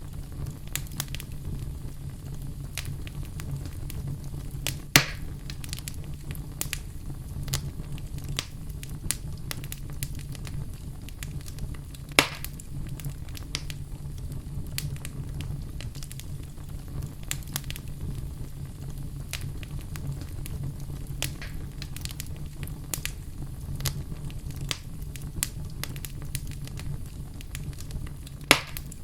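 Wood fire burning in a fireplace: a steady low rumble under constant small crackles, with three louder pops, one about five seconds in, one about twelve seconds in, and one near the end.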